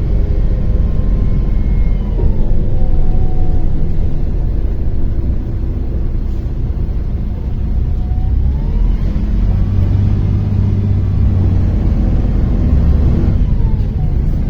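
Cabin of a MAZ-103 city bus under way: steady diesel rumble with a drivetrain whine that drops in pitch about two seconds in, climbs again around nine seconds and drops once more near the end, following the bus's speed.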